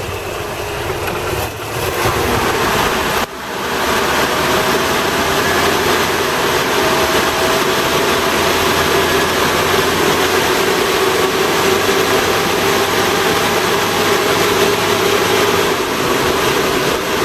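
Toyota Hiace engine running with its engine-cooling fan loud, a steady rushing of air over the engine note: the fan is locked in by a new viscous coupling.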